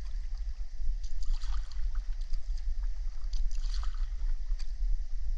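Water splashing and trickling around a paddleboard, in short irregular clusters, over a steady low rumble.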